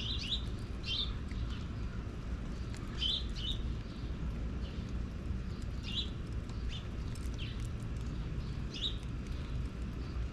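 Short bird chirps, single notes and quick pairs, spaced irregularly every second or few, over a steady low rumble.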